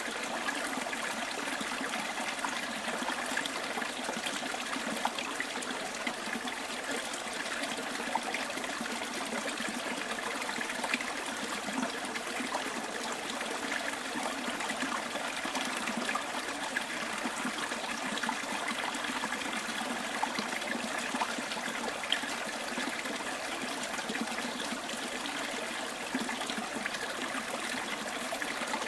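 Small stream trickling and burbling over stones, a steady rushing with many small splashes and drips.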